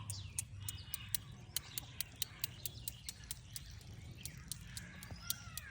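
Birds chirping in short rising and falling calls, one near the start and more near the end. A fast, regular ticking of sharp clicks, about three or four a second, and a low hum run under them.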